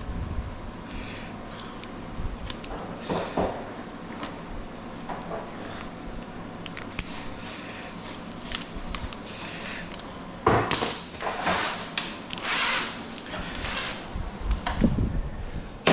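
Scrap metal and wire being handled and worked: scattered small metal clinks and knocks, with longer spells of scraping and rustling about ten to thirteen seconds in and again near the end.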